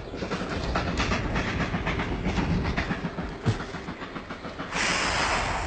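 Ford Focus in a 120 mph crash-test run toward a wall, a fast, dense clattering of clicks. About five seconds in, a sudden harsh hissing noise takes over.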